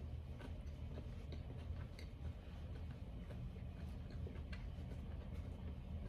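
Faint, irregular clicks and smacks of someone chewing chicken nuggets close to the microphone, over a low steady hum.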